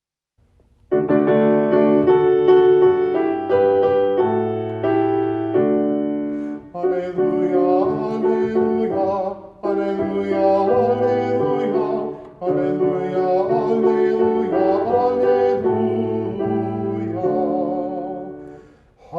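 Keyboard music of slow, held chords. It starts about a second in and pauses briefly between phrases, leading into a sung psalm.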